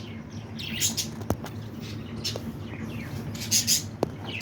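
Budgerigar chicks' short, high begging chirps in the nest box, a few at a time, with a couple of sharp clicks in between.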